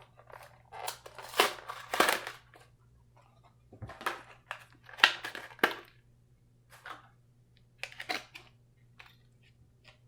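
Plastic blister packaging and cardboard card being crackled, pulled and torn open by hand to free a die-cast model car, in three bursts of irregular crinkling and scraping.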